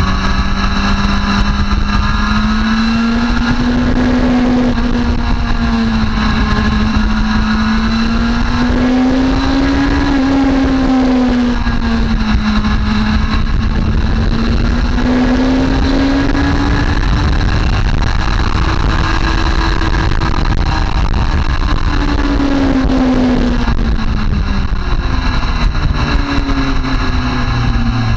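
Motorcycle engine at speed, its pitch rising and falling smoothly several times as it accelerates and eases off, over a steady rush of wind noise. Near the end the engine note drops to a lower steady pitch.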